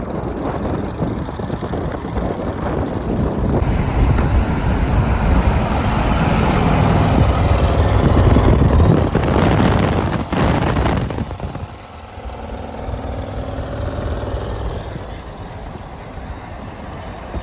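Twin-turbo limousine driving, its engine rumbling under heavy road and wind noise that builds for several seconds, then drops off suddenly a little past the middle.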